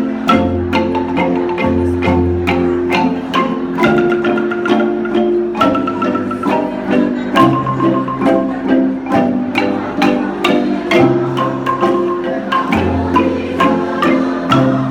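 Kolintang ensemble, Minahasan wooden xylophones, playing an instrumental passage: quick repeated mallet strokes on chords over a low bass line that changes every second or two.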